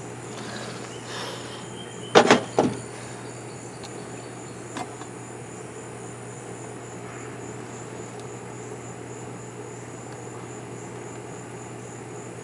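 A quick cluster of three sharp clicks and knocks about two seconds in, and one faint click near five seconds, from hands handling the outboard's wiring and parts. Behind them, crickets chirp steadily and a low hum runs.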